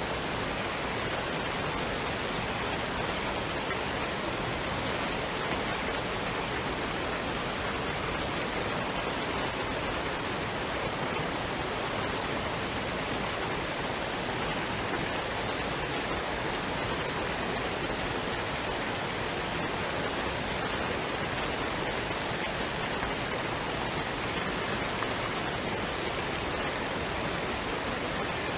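Waterfall and stream water rushing steadily, an even unbroken noise.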